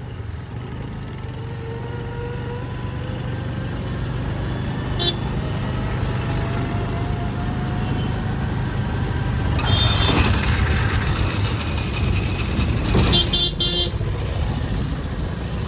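Scooter engine running under load as it pushes a stalled auto rickshaw, a steady low hum with a faint whine that slowly rises as it picks up speed, over road and traffic noise. A vehicle horn toots briefly about 13 seconds in.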